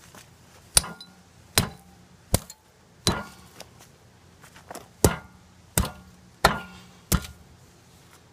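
An axe pounding the ground to tamp the soil down under a fire pit: eight heavy blows in two runs of four, each with a short metallic ring.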